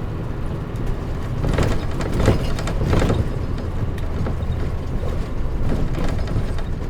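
Cabin running sound of a 2003 Mitsubishi Fuso Aero Star non-step city bus (KL-MP37JM) under way, its diesel engine and road noise running steadily. A flurry of rattles and knocks comes about two seconds in.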